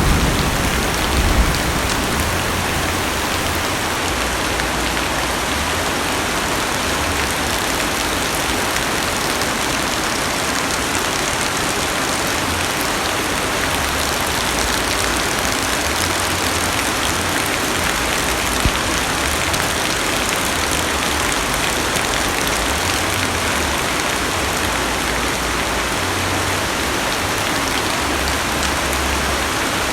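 Heavy rain falling steadily on a car's roof and windows, heard from inside the cabin. A low rumble of thunder fades out in the first second or two.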